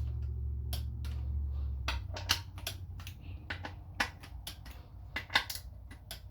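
Irregular sharp clicks and taps of small metal transmission parts and hand tools being handled on a workbench, a few of them louder, over a low steady hum.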